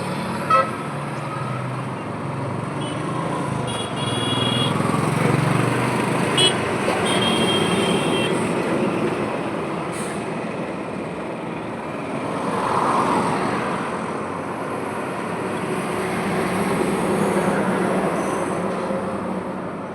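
Highway traffic running steadily, with trucks and other vehicles passing and tyre and engine noise throughout. Vehicle horns toot several times in the first half.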